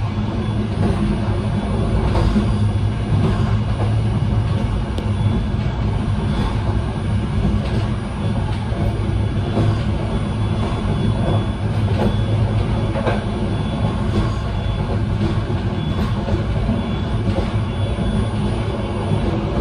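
Train running along the track, heard from inside at its rear end: a steady rumble of wheels on rail with irregular clicks and knocks.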